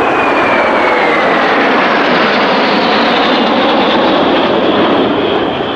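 Formation of six Aero L-39 Albatros jets passing by, their engines a loud steady roar with a whine that falls in pitch over the first couple of seconds.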